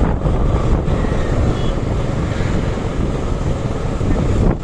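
Wind rushing over the microphone and a steady low rumble from riding a Suzuki Gixer SF motorcycle, its engine running under the wind noise.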